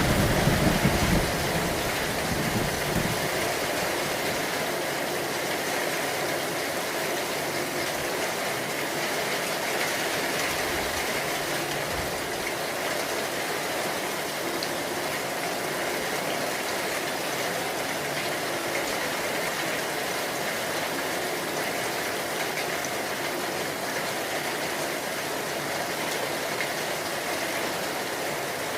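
Steady heavy rain, an even hiss of falling water. A low rumble dies away in the first two or three seconds.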